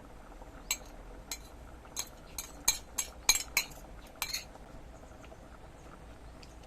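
Kitchen utensils clinking against cookware during cooking: about nine sharp clinks, bunched closest together in the middle, then only a faint steady background.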